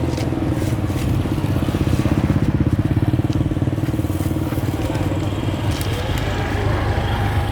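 A small engine running steadily, its rapid firing pulse briefly stronger about two seconds in.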